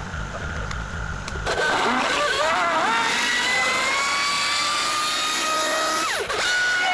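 Kubota KX040 mini excavator working. A low engine rumble gives way, about a second and a half in, to a louder machine whine that wavers, then climbs slowly in pitch. The whine dips sharply and recovers about six seconds in, then holds steady.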